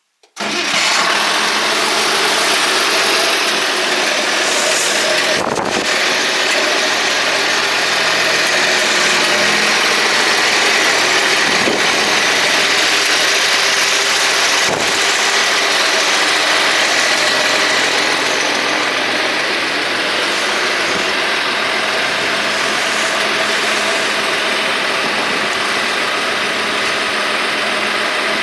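International 1086 tractor's six-cylinder diesel engine running steadily at idle.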